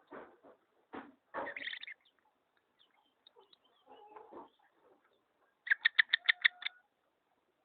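A pet bird calling: short harsh rasping calls, then a fast run of about seven sharp, high call notes near the end.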